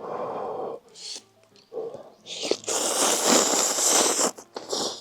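Mouth noises of a man eating very spicy ramen: a string of noisy slurps and hissing breaths, the longest and loudest about three to four seconds in, over faint background music.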